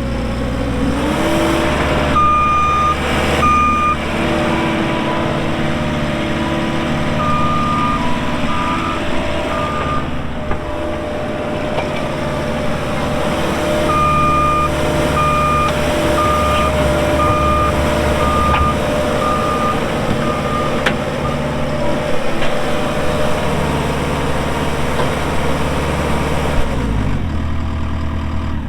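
JCB 300T skid steer's diesel engine running under throttle while the machine works, with its backup alarm beeping in runs as it reverses. The engine revs up about a second in and drops back down near the end.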